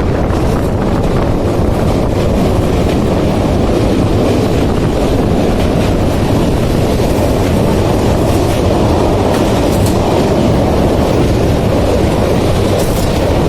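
Indian Railways train running, a loud steady rumble of the rolling train with wind on the microphone.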